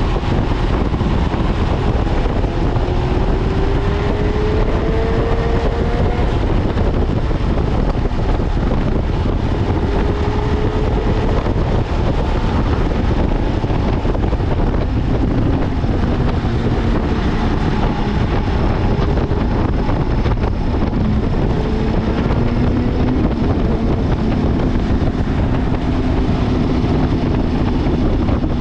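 Wind rushing over the microphone of a moving motorcycle, with engine tones rising and falling slowly as the speed changes.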